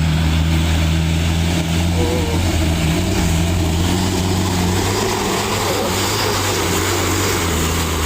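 Truck engine running with a steady low drone, its pitch wavering only slightly.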